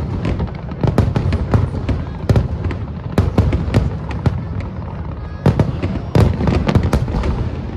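Aerial fireworks going off in a rapid barrage: many sharp bangs and cracks, several a second, over a continuous low rumble of shell bursts and echo, easing briefly past the middle before picking up again.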